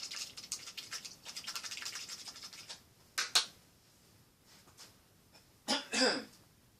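A paintbrush scrubbing and dabbing oil paint onto canvas in quick scratchy strokes, several a second. After that come two louder single swipes, about three seconds in and again near the end.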